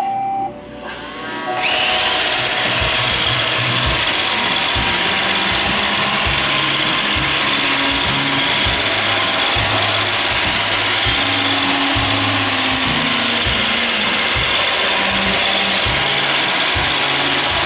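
iRobot Roomba 551 robot vacuum starting up: a short tone, then its vacuum motor and brushes spin up about a second and a half in and run with a steady whirring hiss.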